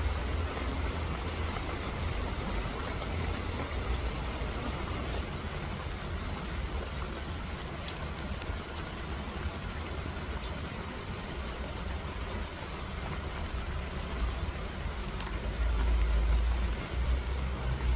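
Steady rain falling, with a low rumble underneath that grows louder near the end.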